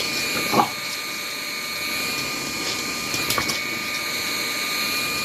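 Vacuum cleaner running steadily with a constant whine. There is a brief sharp sound about half a second in and a few clicks around three seconds in.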